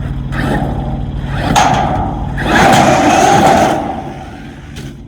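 Traxxas X-Maxx RC monster truck running, with a sharp thud about one and a half seconds in and then a louder, noisy rush of motor and tyres for about a second before it fades.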